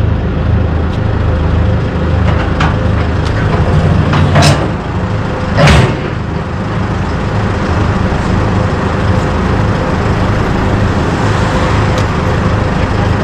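Truck engine running steadily, with two short, loud noisy sounds about four and a half and six seconds in.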